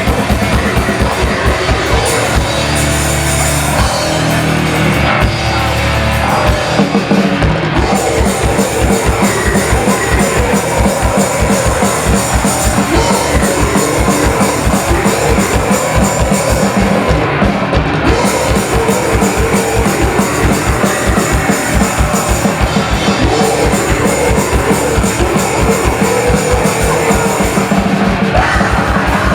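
Loud rock band playing live with distorted guitars, bass and drums. Held low chords open the passage, and after about seven seconds the drums break into a fast, driving beat.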